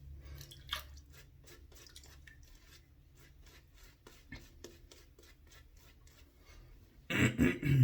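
GEM 1912 single-edge safety razor scraping through lathered stubble: a quick run of short, scratchy strokes, then sparser, fainter ones. About seven seconds in comes a louder burst of noise lasting under a second.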